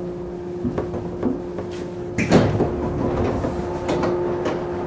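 Running sound inside a JR East 113-series motor car (MoHa 113-1103): a steady hum with scattered clicks and knocks, and one louder clunk about two seconds in.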